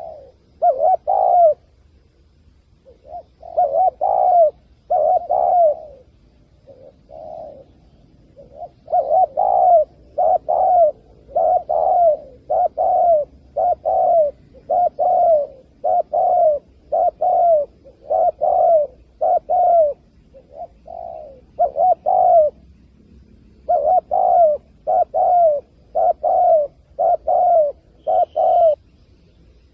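Spotted dove cooing over and over: short, low, pulsing coos about once every half-second to second, in runs broken by brief pauses.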